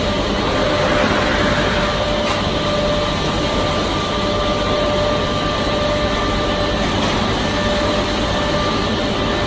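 Timber-processing machinery running steadily: an even mechanical noise with a constant whine through it.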